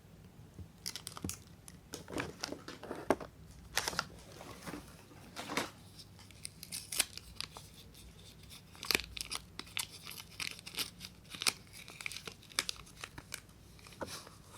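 A soap bar's wrapper being torn open and crinkled by hand, in irregular fits and starts with sharp crackles.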